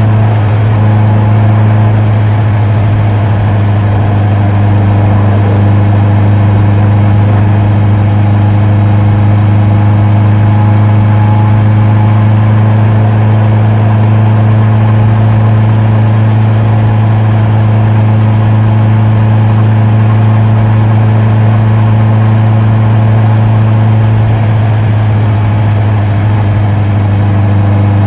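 Honda CB650R's inline-four engine and exhaust running at steady, unchanging revs.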